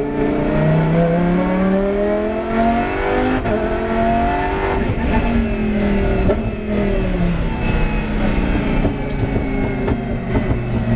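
Lamborghini Huracán GT race car's 5.2-litre V10 pulling hard. The revs climb for about four seconds, then fall over the next two seconds as the car slows, and run lower and steadier before picking up again near the end.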